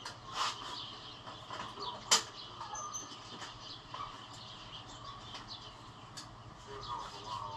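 Faint, scattered light clicks and knocks, with one sharper knock about two seconds in, over faint bird chirps.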